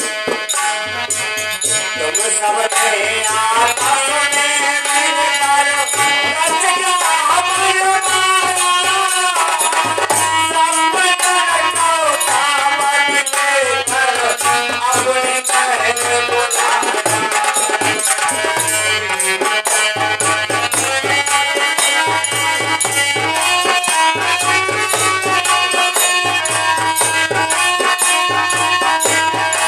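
Instrumental break in a Hindi devotional bhajan: a melody instrument plays over a steady hand-drum beat and continuous jingling rattle percussion.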